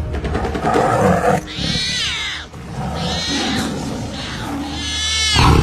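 Tiger roaring, over a low steady music drone, with three bouts of high-pitched calls that fall in pitch between the roars.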